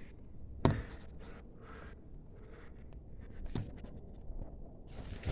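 Scratchy rustling and scraping, with two sharp clicks, about half a second in and again about three and a half seconds in.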